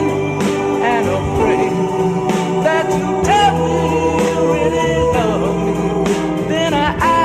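Doo-wop ballad: a vocal group singing in close harmony, with long held backing notes under a lead voice that wavers with vibrato.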